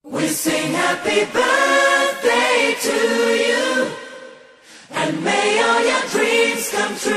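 Several voices singing together, unaccompanied, in two phrases with a short break about four seconds in.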